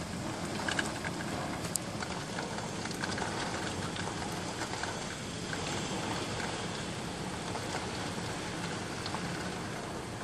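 Heavy rain pouring down on a street: a steady hiss with many small drops spattering close by.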